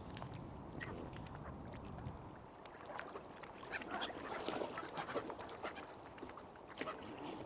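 Waterfowl calling: a scatter of short quacks and honks that grows into a busier flurry about halfway through, over a low steady background rumble.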